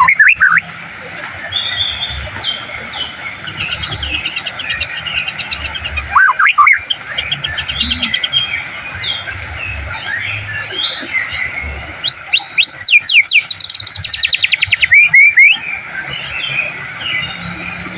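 White-rumped shama (murai batu) singing a varied song of chirps and whistles, with sharp rising whistles near the start, about six seconds in and about fifteen seconds in. From about twelve to fifteen seconds in comes a loud run of fast repeated notes.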